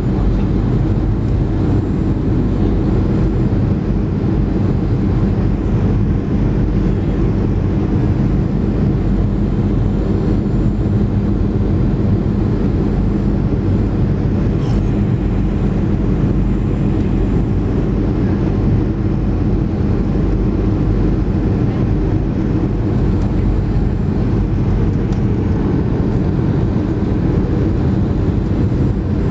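Cabin noise of a Boeing 737-300 heard from a passenger seat: a steady rumble of its CFM56-3 jet engines and the airflow, with a low, even hum.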